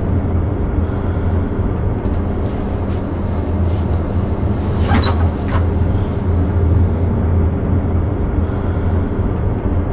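Steady low rumble of a passenger train carriage running on the rails, heard from inside a compartment as the train pulls away. One brief sharp clack comes about five seconds in.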